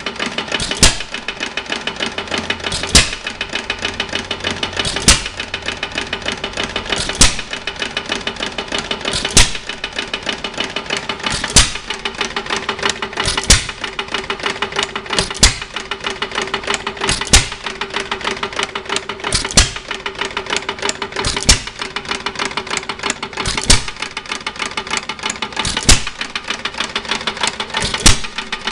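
United 1 3/4 hp hit-and-miss gas engine running unloaded. It fires one loud bang about every two seconds, then coasts on its flywheels with a rapid light clatter between firings.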